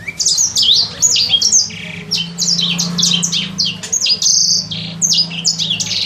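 A kept songbird singing a rapid, unbroken string of high chirps that slide downward, several a second, as it practises its song. A steady low hum runs underneath.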